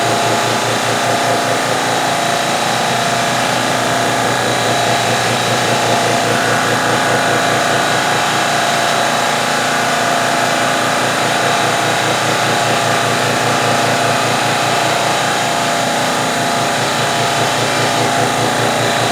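CNC mill face-milling a light finishing pass with a 1.5-inch carbide-insert face mill at about 2,500 RPM, over the steady running of a piston air compressor. A dense, even mechanical noise with a fast regular pulsing underneath.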